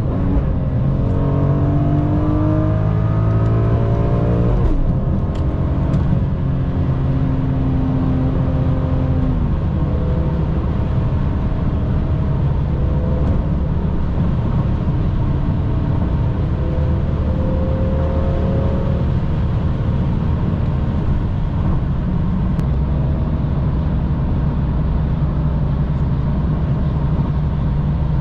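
Car engine accelerating, its pitch climbing for the first few seconds, then dropping about five seconds in. It settles into a steady drone, with smaller rises in pitch later on.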